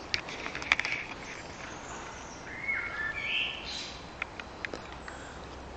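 Woodland birdsong: short whistled notes that step from one pitch to another, clearest about halfway through, over a steady outdoor hiss. There are scattered sharp clicks near the start and again near the end.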